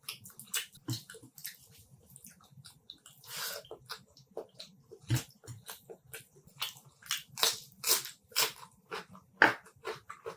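Close-miked eating sounds of someone biting and chewing chicken curry with rice: wet chewing with irregular lip smacks and sharp mouth clicks, louder in the second half.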